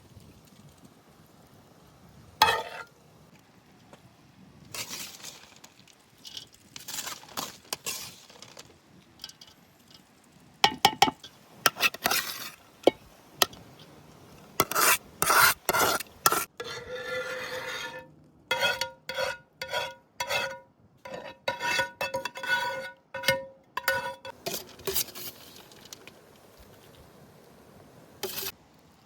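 A metal spoon scraping and clinking against pots and dishes in stirring and serving. Over the second half come a run of quick taps, each leaving a short metallic ring.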